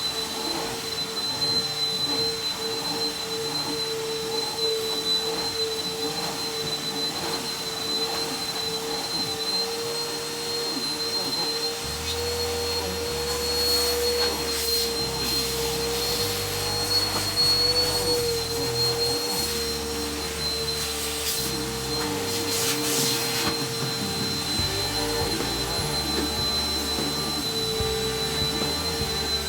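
Household vacuum cleaner running steadily over carpet, its motor giving an even whine, with a few short crackles in the middle as debris is sucked up.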